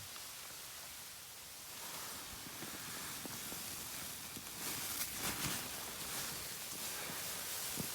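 Steady hissing noise with rustling that grows louder about five seconds in.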